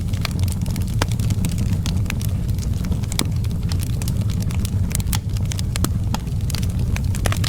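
Outdoor wood fire crackling, with irregular sharp pops and snaps over a steady low rumble of the flames.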